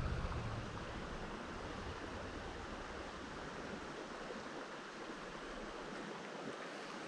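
Creek water running, a steady even rush. A low rumble under it fades out in the first second.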